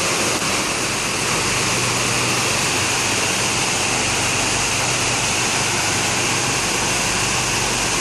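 Heavy rain falling in a steady downpour, an even hiss with a faint low hum beneath.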